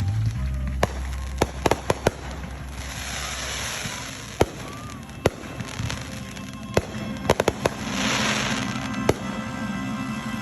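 A fireworks display: a dozen or so sharp bangs of exploding shells, some in quick clusters, with two spells of hissing crackle.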